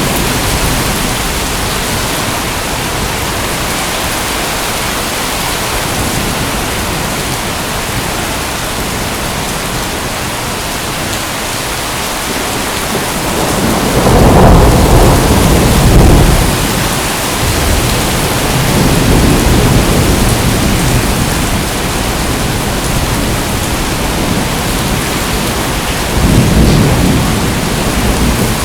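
Steady heavy rain hissing, with rolling thunder: a loud low rumble builds about halfway through, a softer roll follows, and another loud rumble comes near the end.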